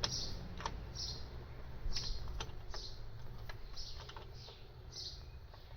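Irregular light metallic clicks and ticks from a wrench running lug nuts onto a car wheel's studs, with a steady low hum underneath.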